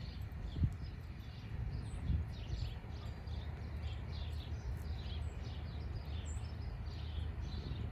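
Birds chirping in short, repeated high calls over a steady low outdoor rumble.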